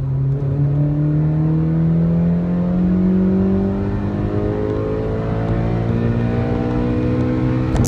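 2015 Honda Civic Si's 2.4-litre four-cylinder with an axle-back exhaust, accelerating hard in one gear, heard from inside the cabin; the engine note climbs steadily in pitch as the revs rise.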